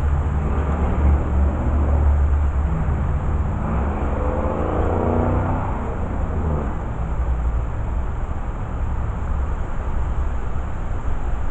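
A car drives past on the street, its engine note swelling and then dropping away between about four and six seconds in, over a steady low rumble.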